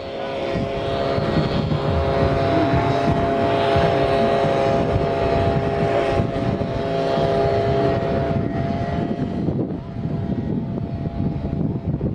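Truck engine running with a steady drone, growing louder about a second in and easing off near the end.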